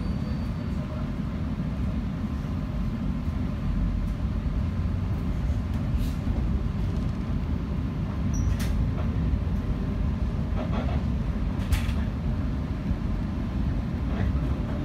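Shinano Railway 115-series electric train heard from inside the passenger car while running: a steady low rumble of wheels and running gear, with a few sharp clicks.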